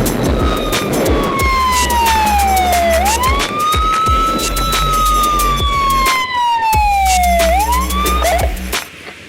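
Siren wailing: a tone that slides slowly down and sweeps quickly back up, twice, over electronic music with a heavy bass beat. The siren drops away near the end.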